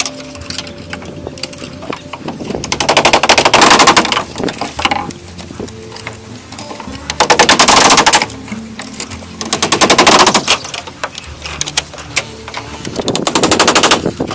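Rapid mechanical rattling, a fast run of sharp strikes, comes in four loud bursts of one to two seconds each. Faint background music plays between the bursts.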